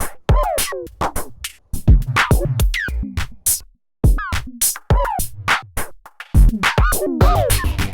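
Electronic beat from a Maschine MK3 groovebox: kick and hi-hat hits under short synth notes that swoop in pitch, from the Pigments synth through an MS-20-style filter. It drops out briefly near the middle and thickens into a denser layer near the end.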